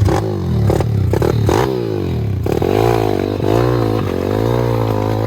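Pit bike's single-cylinder four-stroke engine revving up and down again and again, cutting in suddenly. Clattering knocks come over the first couple of seconds.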